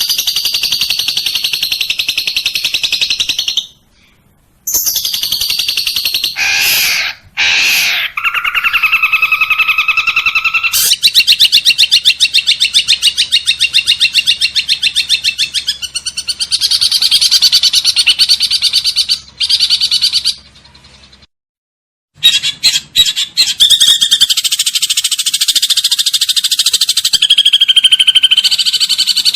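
Recorded songbird song: high-pitched, fast trilling phrases one after another, breaking off abruptly about four seconds in and again for a second or so near twenty-one seconds.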